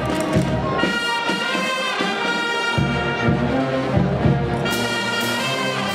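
Brass band playing sustained chords, with trumpets and trombones.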